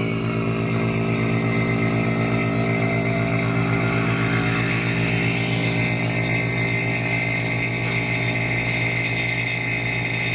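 Electric vacuum pump running steadily, pulling soap and water out of an AC service hose. It is a steady hum with a high whine that grows a little stronger about halfway through.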